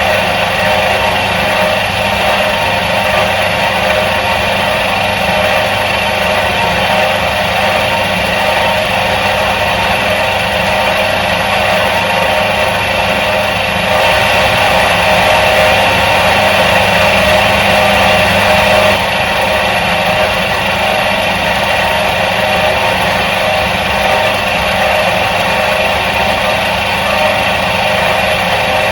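Electric motor of a 1977 Soviet washing machine running steadily with an even hum. It gets slightly louder for about five seconds midway, then settles back.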